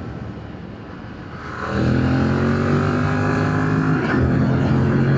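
Yamaha MT-07's parallel-twin engine, through the stock exhaust, getting louder about a second and a half in as the throttle opens, then pulling with a slowly rising pitch. The sound breaks briefly about four seconds in and then carries on.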